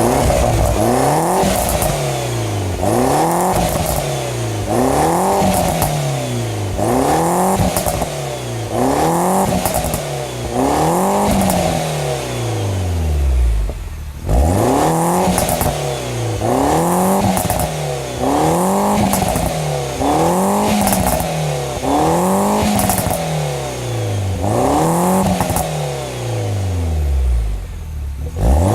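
Mini Cooper S R56's turbocharged four-cylinder engine with an aftermarket stainless sports exhaust, revved over and over: the exhaust note climbs and falls back about every two seconds, dropping away low about halfway through and again near the end.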